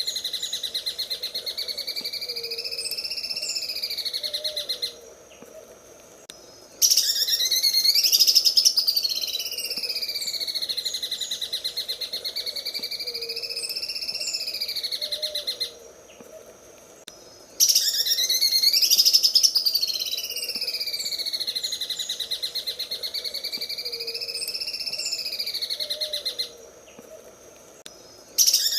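Cucak ijo (green leafbird) singing its 'sewing machine' song: a very rapid rattling trill whose pitch rises and falls in slow waves, in long phrases of about nine seconds. Each phrase opens with a quick upward sweep, and the phrases repeat identically, each separated from the next by a pause of about two seconds.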